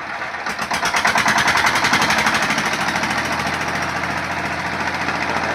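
12 HP Bharat single-cylinder industrial diesel engine driving a generator set, running with a fast, even knocking beat. It builds over the first second, then holds steady.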